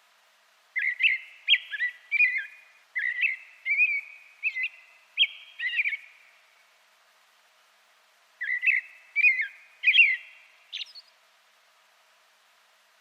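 A songbird singing clear, whistled, warbling phrases in three runs, with a pause of about two seconds before the last one.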